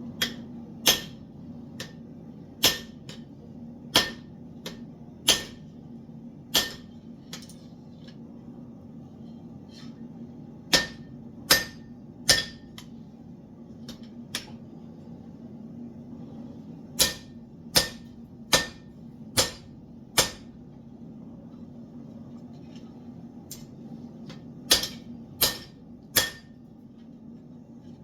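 Blacksmith's hammer striking steel on an anvil, forging the piece down to thickness. Single sharp blows come about a second apart in short runs of three to five, with lighter taps between, over a steady low hum.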